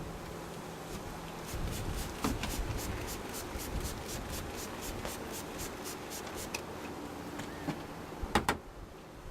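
Wooden beehive parts being rubbed in a quick, even rhythm of about four strokes a second, after a low bee hum. Two sharp wooden knocks come near the end.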